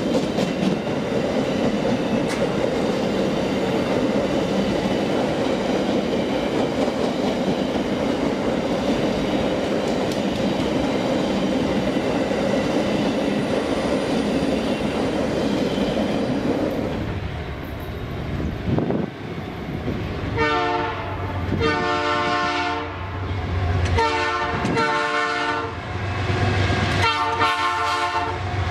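Freight train wagons rolling past with a steady rumble and rattle of wheels on rail, then a diesel locomotive's air horn sounding several blasts in the last third.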